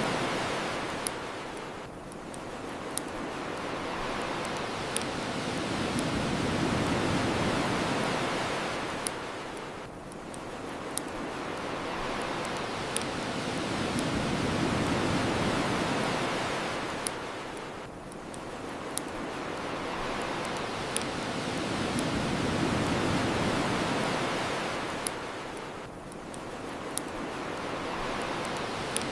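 Ocean waves washing onto the shore, the rush swelling and falling back about every eight seconds, with sharp pops from a crackling bonfire every second or two.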